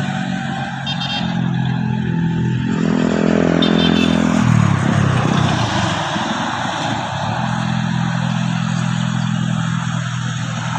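Mitsubishi Canter truck's diesel engine pulling under load on a steep climb. Its pitch rises about three seconds in, falls away sharply around five seconds, then holds steady.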